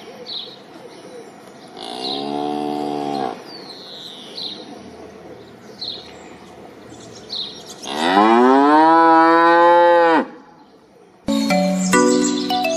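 Cow mooing twice: a short moo about two seconds in and a longer, louder one that rises and then holds, about eight seconds in. Small birds chirp throughout, and chiming music starts near the end.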